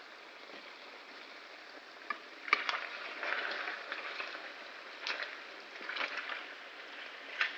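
Chicken skin and macaroni frying in hot oil in a pan with a steady sizzle. From about two and a half seconds in, a spatula stirs through them, scraping and knocking against the pan a few times as the sizzle swells.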